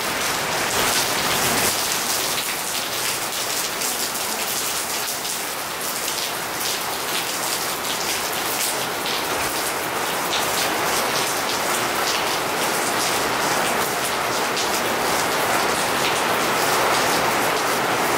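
Steady rain falling: a dense, even hiss of drops, with many separate drop hits ticking through it.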